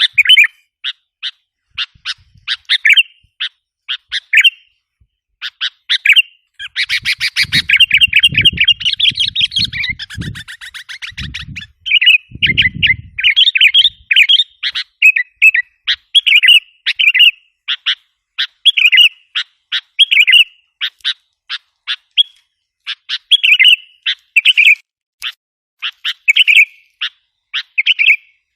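Sooty-headed bulbuls calling: short, bright chirping notes repeated throughout, thickening into a rapid, excited chatter about a quarter of the way in, with a low rumbling sound underneath that dense stretch. These are the agitated calls used as a lure for wild bulbuls.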